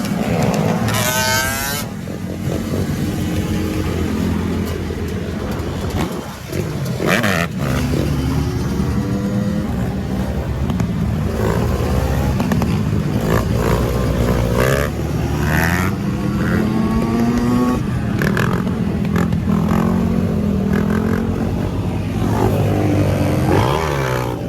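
Several motorcycle engines revving and running together, their pitch repeatedly rising and falling.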